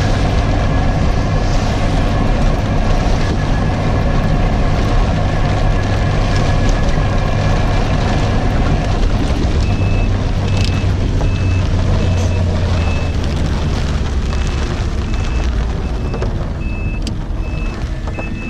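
Steady vehicle rumble with a strong low hum. About halfway through, a high, even beep starts repeating a little more than once a second.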